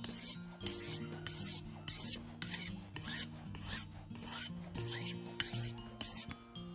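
Rockfish being scaled: repeated rasping scrapes across the scales, about two strokes a second.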